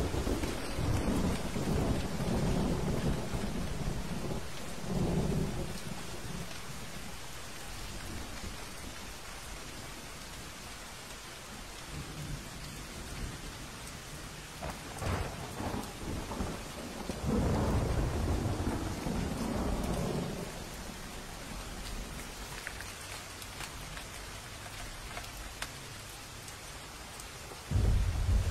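Steady heavy rain with rolling thunder: a long rumble over the first several seconds, a sharper crack about halfway through, followed by another long rumble, and a sudden loud thunderclap near the end.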